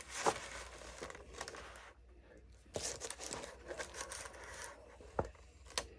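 A microwave flower press being opened and unpacked by hand: its fabric and felt pad layers rustle and scrape as they are pulled apart, with a few sharp clicks of the press's plates or clips.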